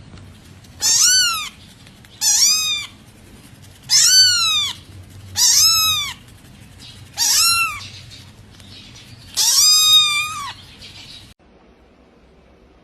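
Cat meowing six times in a row, each a short high call that rises and falls in pitch, with the last one drawn out longer.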